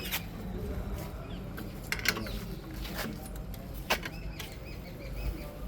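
A handful of sharp metal clicks and knocks from hand tools at work, over a steady low hum.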